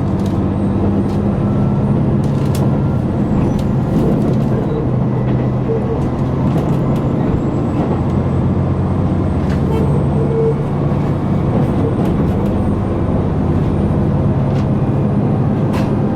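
KiHa 261 series diesel railcar's engine running steadily under power, heard from inside the passenger cabin, with running noise underneath and a few faint clicks.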